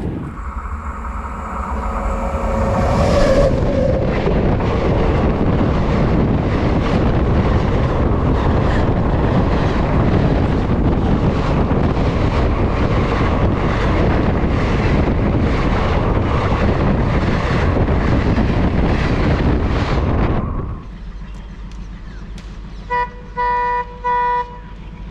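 A train horn sounds and drops in pitch as the train reaches the crossing, then the train runs past at speed with a steady, rhythmic clatter of wheels over the rail joints, which cuts off abruptly. Near the end a horn gives three short toots.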